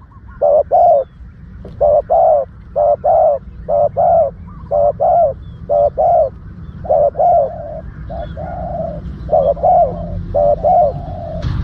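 Spotted dove cooing over and over, short coo notes in pairs and triplets about a second apart, with a steady low rumble underneath.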